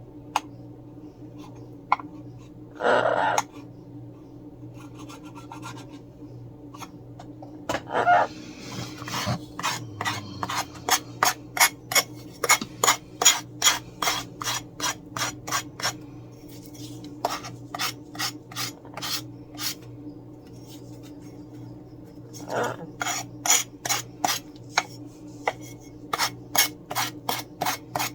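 Sandpaper rubbed back and forth by hand against a napkin-covered coaster, sanding the napkin tissue off, in quick strokes of about three a second. It comes in two long runs, the first starting about a third of the way in and the second near the end.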